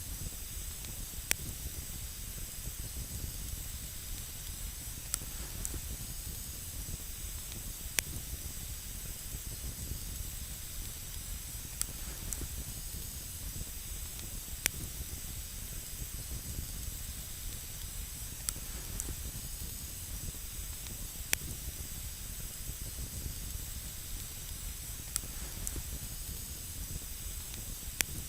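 Wood campfire burning: a steady hiss and low rumble of flame, broken by sharp crackling pops every few seconds.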